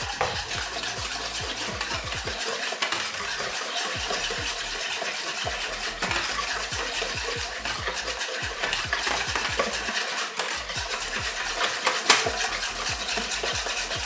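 Wire balloon whisk beating a liquid mixture of eggs, oil, milk and sugar in a bowl: a steady, rapid scratching with fine clicks of the wires against the bowl.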